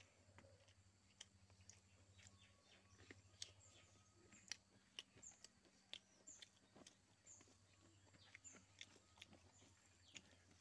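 Faint close-up eating sounds: chewing with scattered wet mouth clicks and smacks as rice and chicken curry are eaten by hand. From about halfway through, a small bird chirps several times in the background.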